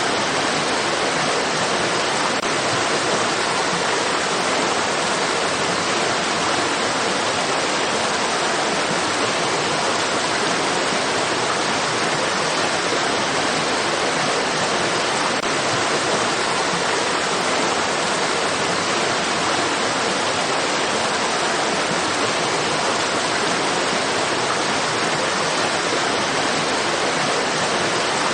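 Stream water rushing steadily, an even hiss of flowing water that stays level throughout.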